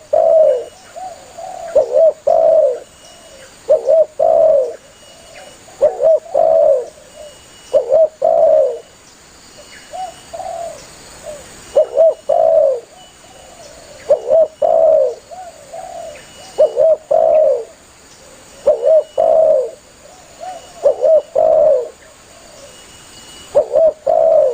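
Spotted dove (tekukur) cooing over and over, a phrase of two or three low coos about every two seconds: the bird's calling song, used as a lure to call other doves.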